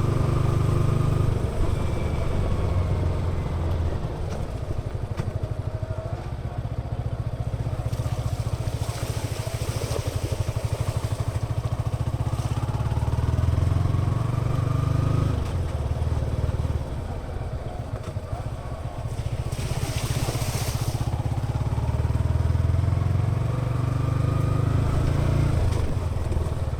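Yamaha XSR 155's single-cylinder engine and exhaust running under load while the motorcycle is ridden, the engine note rising and falling with the throttle. Two short bursts of hiss come about nine and twenty seconds in.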